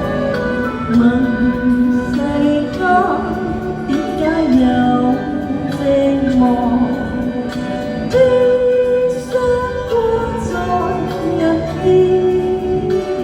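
Music with a female voice singing a melody, no clear words.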